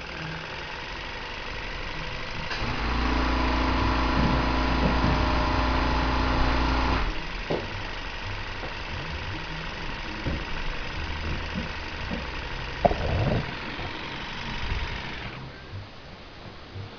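Model vertical mill engine running steadily. About three seconds in a louder steady hum joins for about four seconds, there are a few short knocks later on, and the running noise drops away suddenly near the end.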